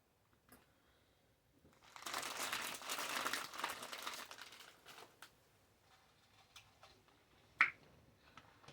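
Paper burger wrapper crinkling and being pulled back for about three seconds, followed by a few faint rustles and one sharp click near the end.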